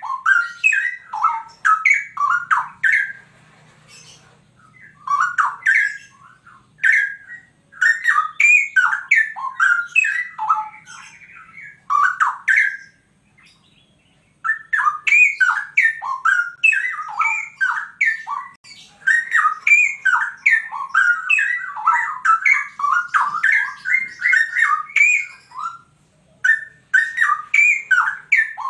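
Straw-headed bulbul (cucak rowo) singing loudly, its rich bubbly warbling phrases several seconds long broken by brief pauses.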